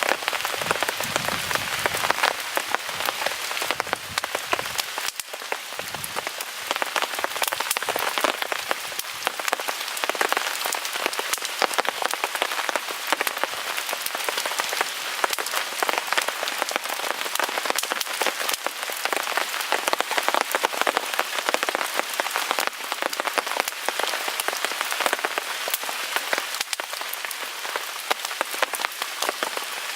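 Steady rain pattering on a tarp, a dense spray of drops, mixed with the crackle of a small wood fire.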